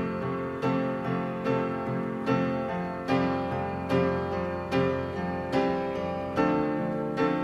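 Piano music: single notes and chords struck at an unhurried, even pace, each ringing on as the next begins.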